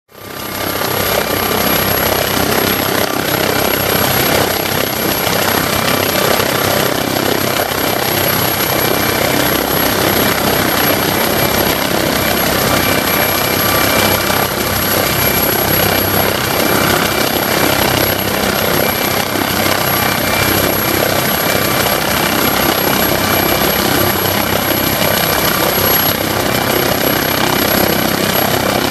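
Twin-turbine MD 900 Explorer helicopter running steadily: loud rushing rotor and engine noise with a steady high turbine whine of several tones over it.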